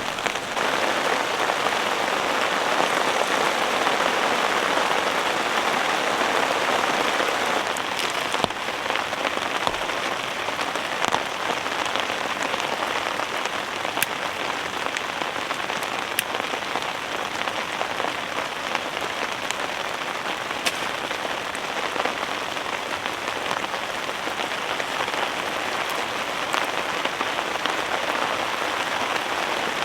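Heavy rain falling steadily on a fabric shelter, a little heavier for the first several seconds and then easing slightly, with scattered sharper single drop hits.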